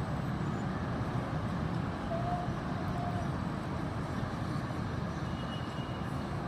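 Steady rumble of road traffic with heavy vehicle engine noise, even throughout with no rise or fall.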